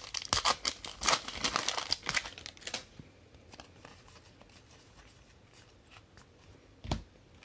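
Foil trading-card pack wrapper crinkling as it is torn open, for about three seconds, then a single soft thump near the end.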